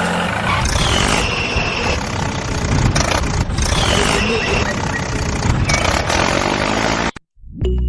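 Tractor engine running with a fast, dense rattle and two brief falling whistles, cutting off abruptly about seven seconds in.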